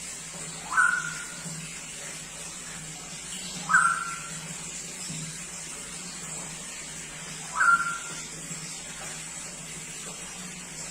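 Straw-headed bulbul (cucak rowo) giving three short, loud whistled notes, each sweeping upward and holding briefly, spaced a few seconds apart over a steady background hiss and hum.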